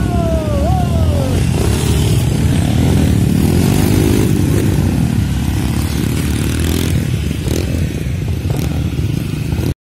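Trail motorcycle engines running together, with a rev that rises and falls about four seconds in. The sound cuts off suddenly near the end.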